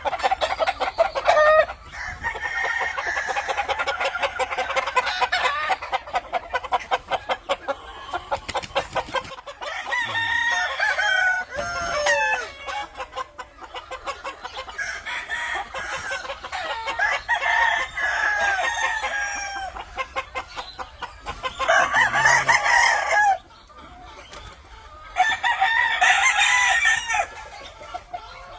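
Game roosters crowing again and again, several birds' calls overlapping, with clucking between them; two loud crows stand out near the end.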